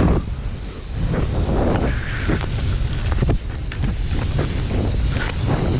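Wind buffeting the microphone of a skier moving downhill, a heavy low rumble with irregular hissing scrapes of skis running through snow.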